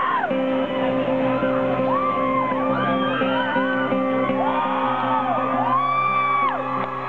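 Audience whooping and shouting over a live band's sustained, held chord at a concert. Cries rise and fall in pitch, one after another, over the steady drone of the instruments.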